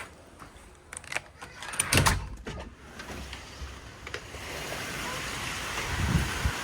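A run of clicks and knocks with a heavy thump about two seconds in. Then a steady hiss of wind and rain from the storm comes up from about halfway, with a low thump near the end.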